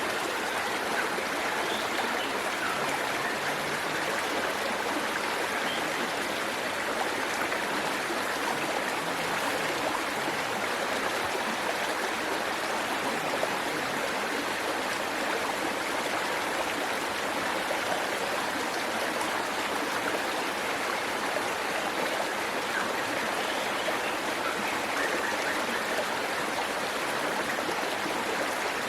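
Waterfall water falling and splashing steadily: an even, unbroken hiss with no separate sounds standing out.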